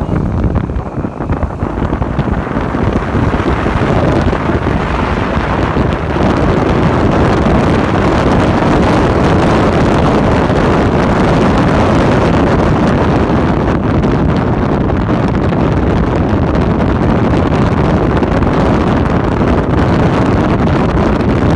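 Heavy wind noise buffeting a phone's microphone on a moving motorcycle, building over the first few seconds and then holding steady.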